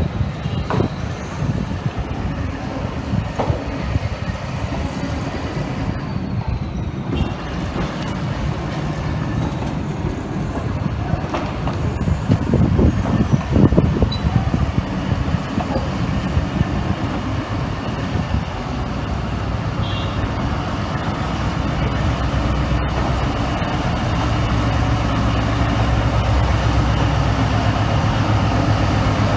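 Freight train of loaded sugar cane wagons rolling past close by, the wheels rumbling and knocking on the rails, louder about halfway through. In the last few seconds the steady hum of a diesel locomotive's engine grows as it draws near.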